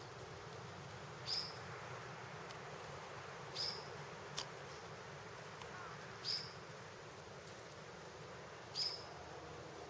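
A short, high chirp from a small animal, heard four times at even intervals of about two and a half seconds, over a steady background hiss; a single sharp click sounds about four and a half seconds in.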